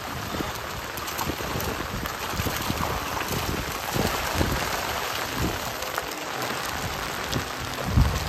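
Steady patter of rain on pond water, mixed with splashes from fish thrashing against a seine net, and a heavier splash or thump near the end.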